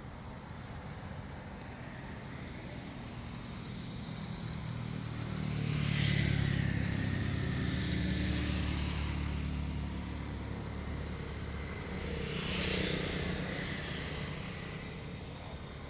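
Motor vehicles passing by, a low engine and tyre rumble swelling and fading twice: once about six seconds in, and again around thirteen seconds in.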